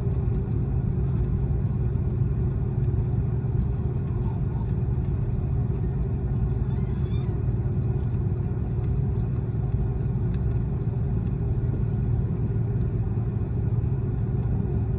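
Airbus A330 engines heard from inside the passenger cabin as the jet starts its takeoff run: a steady, loud low rumble.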